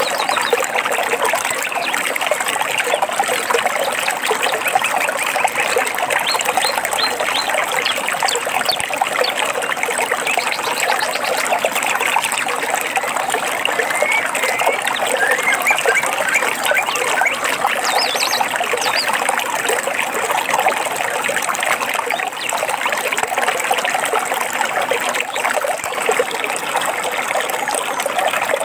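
Stream water babbling and trickling steadily over rocks, with a few faint bird chirps in the middle and about two-thirds of the way through.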